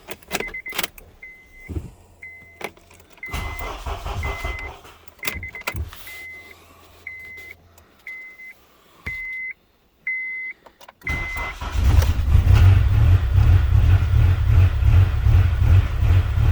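A car's warning chime beeps about once a second among clicks and a faint low hum. About eleven seconds in, the engine starts and runs loudly.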